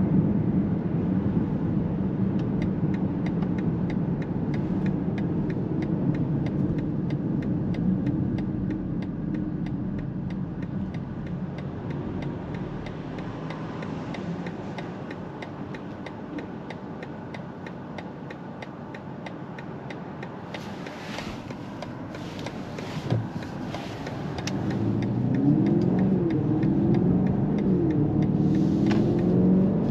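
2023 BMW X7 M60i's twin-turbo V8 heard from inside the cabin, its note easing off as the SUV slows for a turn, with an even ticking of the turn signal. Near the end the engine note rises again as it accelerates through the gears.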